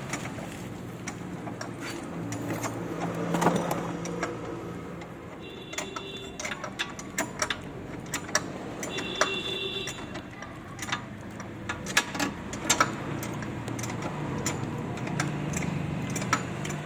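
Scattered metallic clicks and knocks, typical of hand tools working on car suspension parts, over a steady low hum, with two short high tones about five and nine seconds in.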